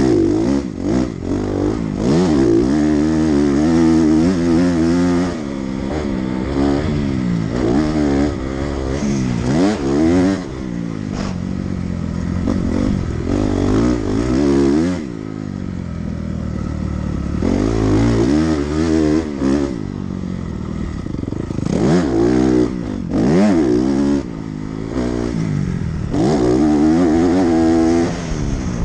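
Dirt bike engine under hard riding, revving up and falling back over and over as the throttle opens and shuts through gear changes, easing off briefly every few seconds.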